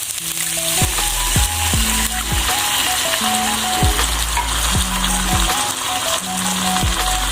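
Chicken and spice paste sizzling in a hot pan just after a cup of water has gone in: a steady frying hiss. Background music with bass notes plays over it.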